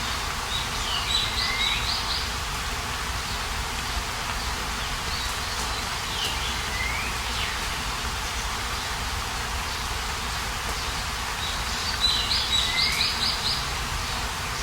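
A songbird sings the same short phrase three times, a quick run of high notes ending in a falling sweep, over a steady outdoor noise hiss.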